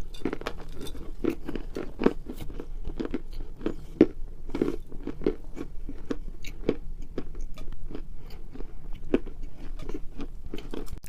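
Edible chalk being bitten and chewed close to the microphone: a steady run of dry, sharp crunches, about two or three a second.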